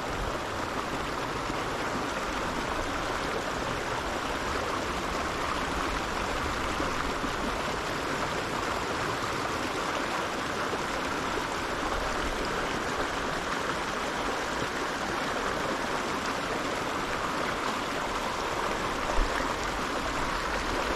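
Alpine mountain creek flowing, a steady, even rush of water.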